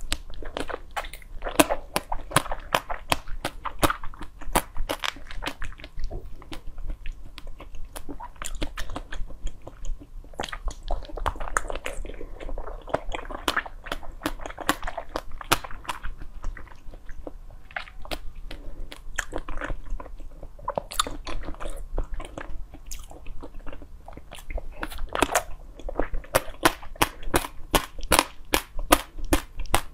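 Close-miked biting and chewing of pink jelly topped with passion fruit pulp, with many sharp crackling crunches from the seeds. The crunches come thick and fast near the end.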